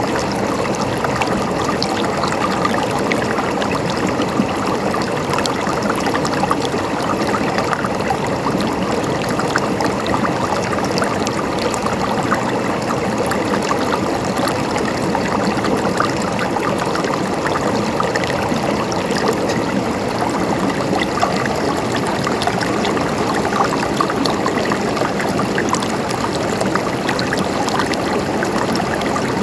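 Stream water flowing and gurgling steadily over rocks, with many small splashes and trickles.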